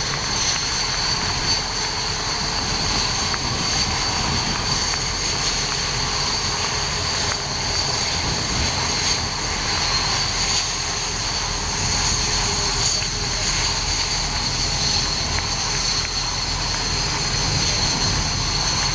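BAE Hawk jet trainers' Adour turbofan engines running with a steady high-pitched whine over a broad rumble; the pitch holds level without rising or falling.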